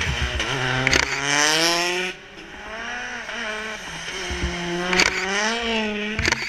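Rally car engine accelerating hard, its pitch climbing, then cut off abruptly about two seconds in. It builds and climbs again through the second half, with a few sharp cracks along the way.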